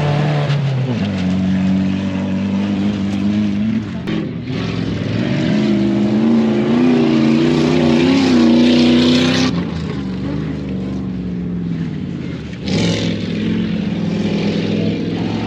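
Off-road race trucks' engines running hard on a dirt track, revving up and down, loudest midway and then easing off, with a sudden change in the engine sound about four seconds in and again near the end.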